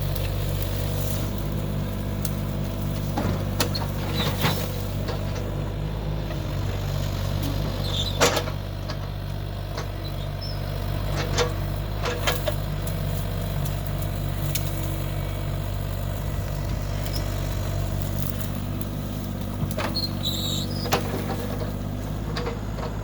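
A truck engine running steadily at idle, its pitch unchanging, with scattered short knocks. The loudest knock comes about eight seconds in.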